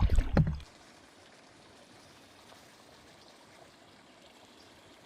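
A few sharp knocks in the first half second, then the faint, steady rush of flowing river water.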